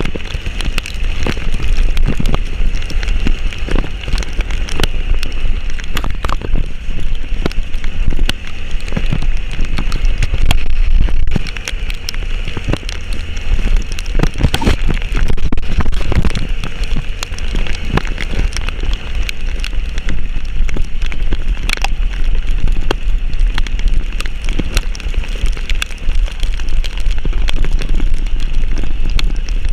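Heavy rain falling, with drops striking close to the microphone as a dense run of sharp ticks over a steady low rumble.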